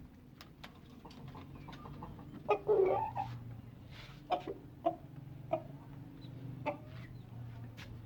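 Domestic chickens clucking: a louder burst of clucks about two and a half seconds in, then single clucks every second or so, with scattered sharp clicks and taps around them.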